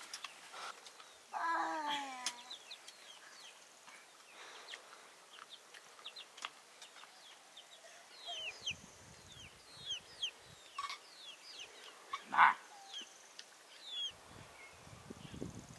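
Birds chirping: a run of short, high, falling chirps, with a lower falling call about a second and a half in and a sharp knock about twelve seconds in.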